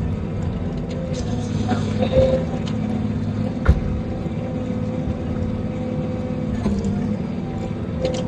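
Tree processor's diesel engine running steadily under work, with a couple of sharp knocks from the machine about two seconds in and just before four seconds in.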